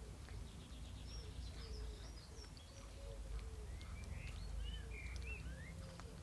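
A bird chirping: a quick run of high chirps about a second in, then several lower, curving chirps over the second half, over a steady low rumble.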